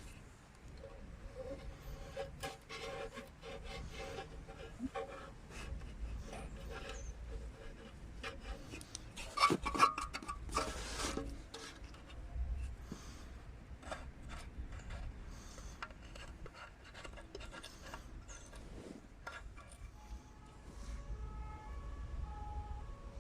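Hand tools scraping and rubbing during car repair work, with scattered clicks and taps and a louder stretch of scraping about ten seconds in.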